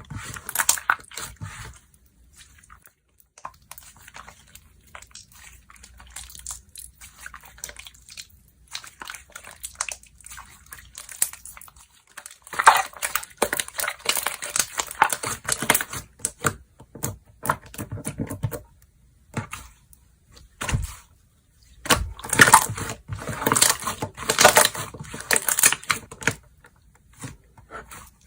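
Hands playing with slime: a run of small sticky clicks and crackles as it is pressed, folded and stretched, fainter at first and coming in louder bursts about twelve seconds in and again around twenty-two seconds in.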